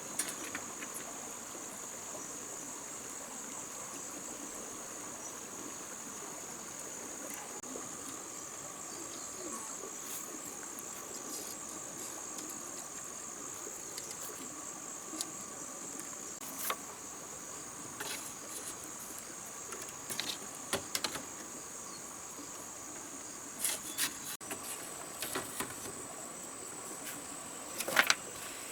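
Insects chirring steadily in a high, even drone, with a fainter lower steady tone beneath. Scattered short clicks and knocks break through, the loudest near the end.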